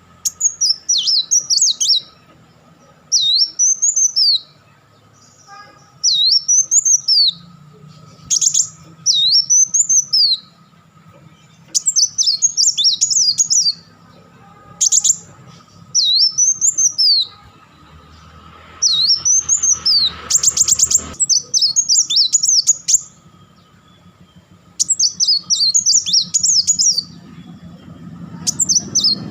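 Sunbird singing in repeated short bursts of high, sharp notes that rise and fall, with brief pauses between phrases. A rapid chattering run comes about two-thirds of the way through.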